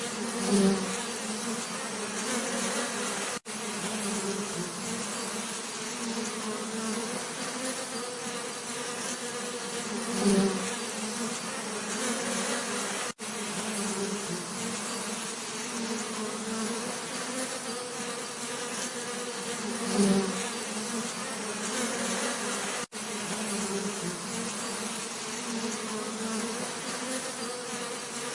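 Many bees buzzing in a steady, continuous drone. A louder buzz swells up briefly three times, about ten seconds apart, and the sound cuts out for an instant three times in between.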